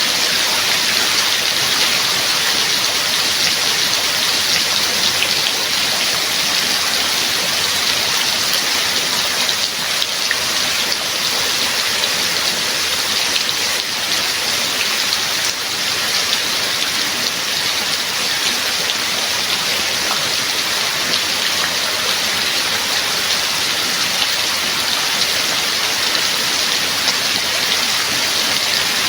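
Steady heavy rain, a dense even hiss with fine drop patter throughout.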